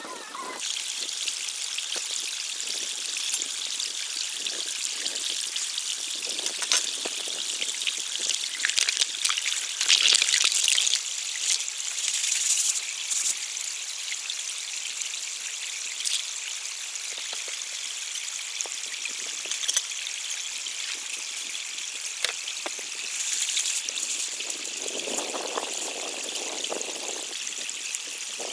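Running water trickling and splashing in a steady hiss, with scattered small clicks and a louder gush around ten seconds in.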